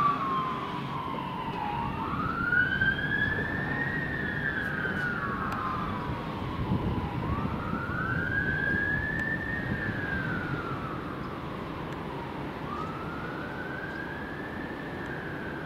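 Emergency vehicle sirens sounding a slow wail that rises and falls about every five seconds, over the rumble of road traffic and engines.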